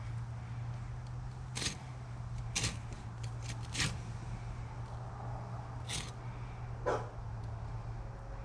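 A fillet knife cutting and scraping against an alligator gar's hard scales, heard as a run of separate sharp clicks and scrapes over a steady low hum. A dog barks once near the end.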